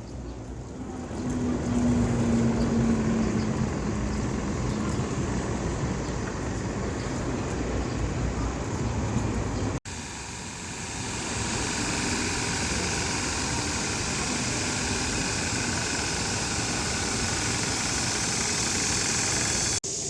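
Street traffic noise: a steady wash of passing road vehicles with a car engine's hum in the first few seconds. The sound cuts off abruptly twice, at edits between clips.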